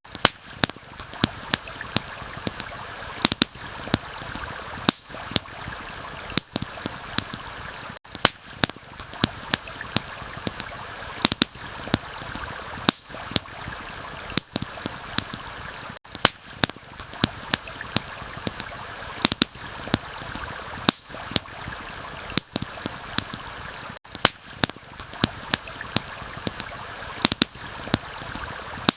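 Stream rushing steadily with a campfire crackling over it, sharp pops and snaps several times a second. The sound drops out briefly about every eight seconds.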